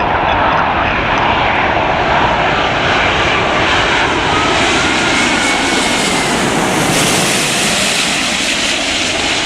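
Jet engines of a heavy airliner passing close by: a loud, steady rush of engine noise that gets brighter and fuller past the middle, with a faint whine drifting through it.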